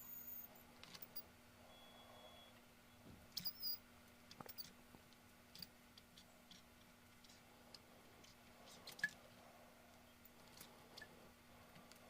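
Near silence with scattered faint clicks and light taps of small parts being handled on a workbench, the sharpest about nine seconds in, and a short high beep about two seconds in.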